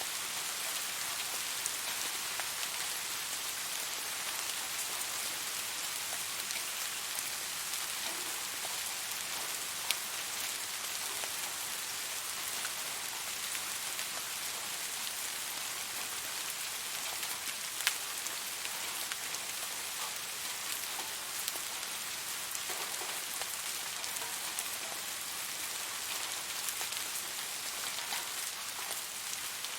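Steady rain falling, an even hiss with occasional louder single drops ticking through it.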